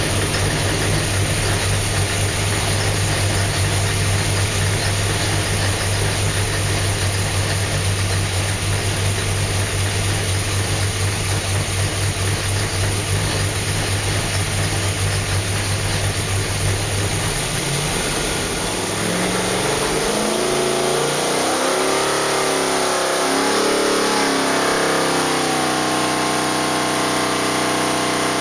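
632 cubic-inch big-block Chevrolet V8 with a solid-roller cam, running on an engine dyno: it idles steadily for most of the first two-thirds, then is revved up and down several times and held at a higher steady speed near the end.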